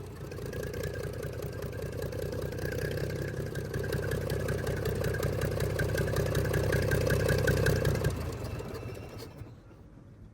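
Komatsu D155 bulldozer's six-cylinder diesel engine running steadily, then fading away about eight seconds in.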